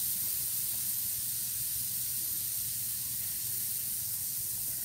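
Chicken thighs and sausages sizzling steadily in hot oil and juices in a stainless steel frying pan.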